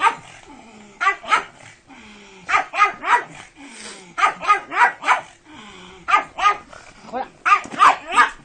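A dog barking in quick runs of two to four barks, with short pauses between the runs.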